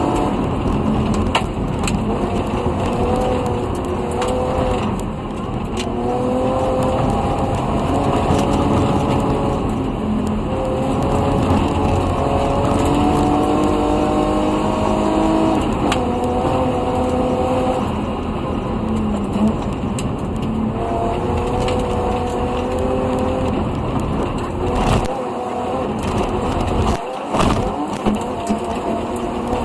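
BMW M50 2.5-litre straight-six in an E30 318is rally car, heard from inside the cabin, revving up and dropping back again and again at each gearshift on a gravel stage, with sharp knocks through it. Near the end the engine briefly comes off the throttle.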